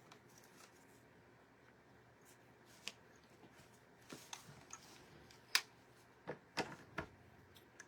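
Scissors snipping fabric scraps: about half a dozen short, separate snips, the loudest about two-thirds of the way through.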